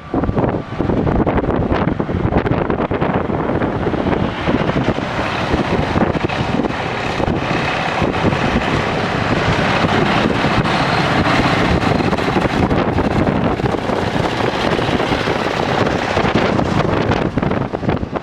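SANY SAG160-5 motor grader's diesel engine running steadily, with wind buffeting the microphone.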